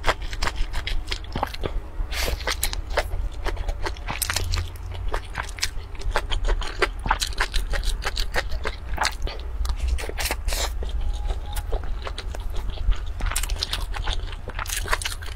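Biting and chewing a crunchy noodle roll: dense, crisp crunching with many quick crackles a second.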